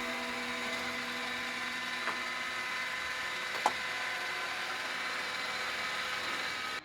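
Sawmill running as it cuts a log: a steady machine whine, with two sharp knocks about two seconds and three and a half seconds in. The sound cuts off abruptly near the end.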